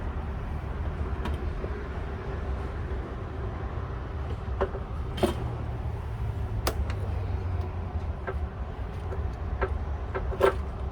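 Scattered sharp clicks and knocks of parts and tools being handled while a radiator and cooling fan assembly is fitted, the loudest about halfway through and again near the end, over a steady low rumble.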